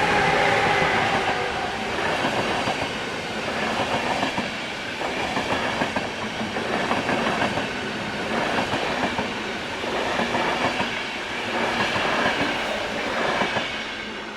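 ČD long-distance passenger train passing at speed. Loudest as it arrives, then its wheels clatter over the rail joints in regular groups as each coach goes by, fading away at the end.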